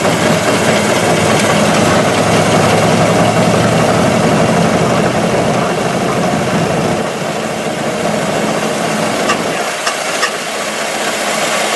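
Ford Model T's four-cylinder engine running as the car drives along in gear, mixed with wind and road noise. The low engine note thins out about seven seconds in, followed by a few sharp clicks.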